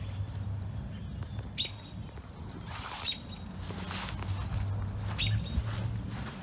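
Small birds chirping, short calls about every second and a half, over a steady low hum, with a brief rush of noise in the middle.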